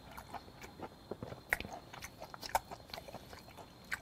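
A person chewing raw olive flounder sashimi with the mouth closed. The chewing gives soft, wet clicks and smacks at irregular intervals, and two of them, around a second and a half in and two and a half seconds in, are louder than the rest.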